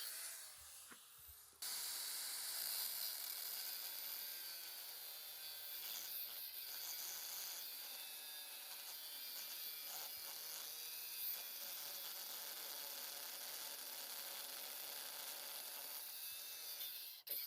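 Steady rasping hiss of a workshop tool working a surface. It starts abruptly about a second and a half in and stops just before the end.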